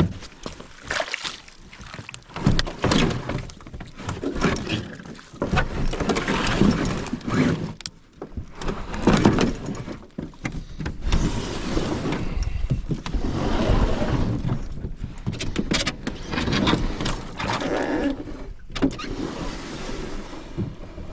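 Canoe being paddled: irregular swishing and splashing of paddle strokes in the water, coming in uneven surges.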